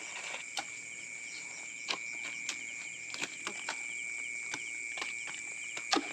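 Insects chirring in a steady high-pitched chorus, with scattered sharp clicks and knocks; the loudest knock comes near the end.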